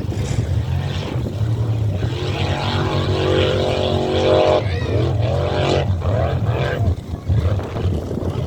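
Off-road rally car engine revving hard: a held high pitch, then several quick rises and falls in revs.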